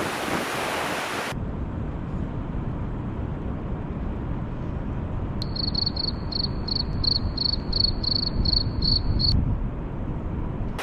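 Steady low rumbling outdoor noise, with a series of high, evenly spaced chirps, about three a second, lasting about four seconds in the middle.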